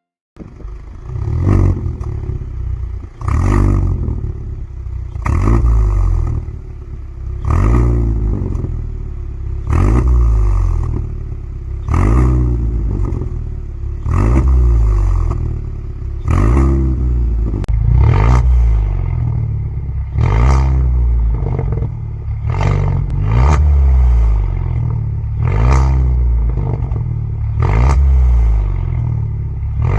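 Kia Stinger Meister 2.5T's turbocharged engine revved through a custom mid-pipe and valved end exhaust, in repeated sharp blips about every two seconds, each rising and falling in pitch with some clatter.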